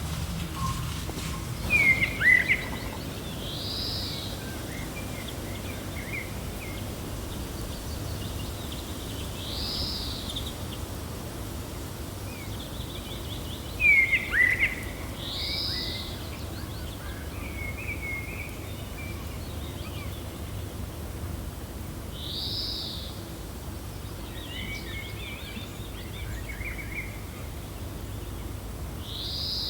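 Gentle wind making a steady low rumble, with small birds chirping over it. A short, high arched call repeats about every six seconds, and two louder sharp chirps come near the start and about halfway, among softer twittering.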